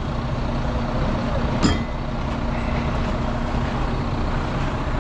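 Heavy recovery truck's diesel engine running steadily under load while it winches a lorry out of a ditch, with one brief sharp click about a second and a half in.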